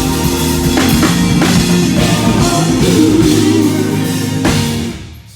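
Gospel band playing: drum kit strikes over sustained keyboard chords, with guitar and some singing. The music dies away sharply near the end.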